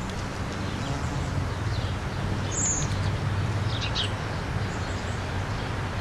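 A few short, high bird chirps, about two and four seconds in, over a steady low hum and background noise.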